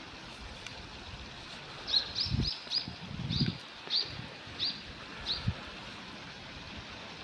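Common kingfisher giving a series of about nine short, high-pitched calls, some in quick succession, starting about two seconds in and stopping about five and a half seconds in, with a few low bumps among them.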